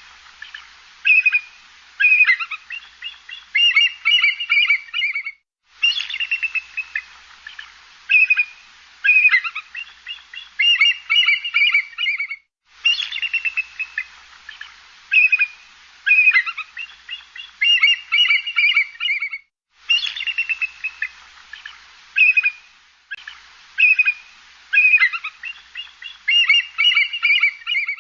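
Songbird chirping and trilling, the same few-second recording repeated about four times with brief silent gaps between repeats.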